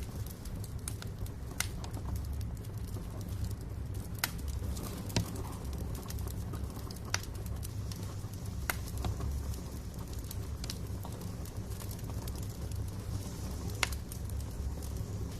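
Wood fire crackling in a fireplace: a steady low rumble of burning with irregular sharp pops and snaps from the logs.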